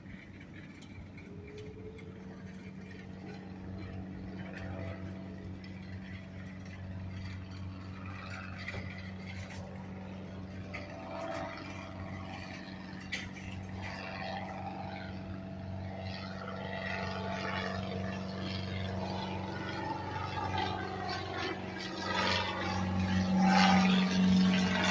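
Airplane engine drone, a steady low hum that grows gradually louder toward the end as the aircraft approaches.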